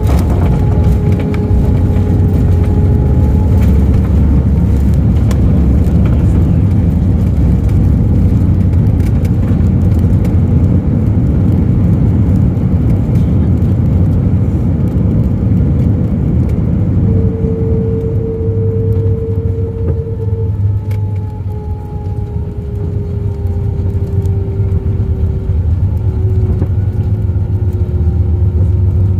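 Airliner landing rollout heard from inside the cabin: a loud, steady low rumble of wheels and engines, with a thin whine that holds, rises briefly past the middle, then slowly falls in pitch. The rumble eases slightly for a moment about two thirds through.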